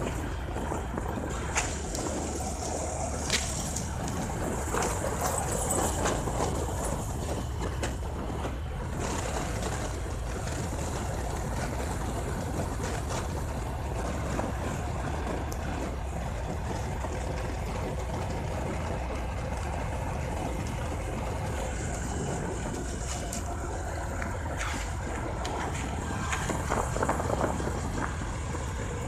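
Bajaj Discover 150F motorcycle's single-cylinder engine running steadily while cruising, under rushing wind and tyre noise, with a few brief sharp clicks.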